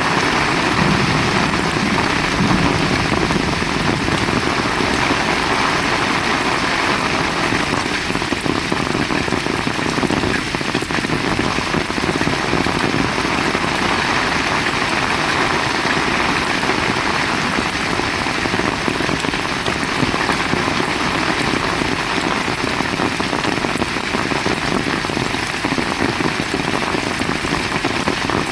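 Heavy rain pouring steadily, hissing and pattering on surfaces, with no let-up.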